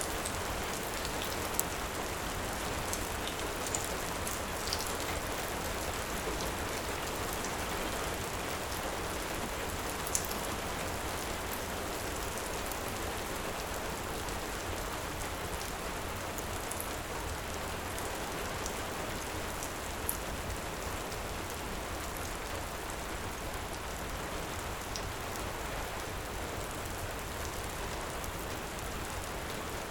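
Heavy rain falling steadily, with a few scattered sharp crackles of a wood fire.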